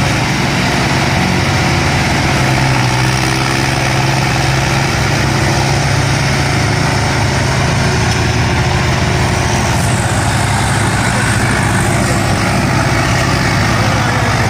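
Tractor's diesel engine running loud and steady at a constant speed.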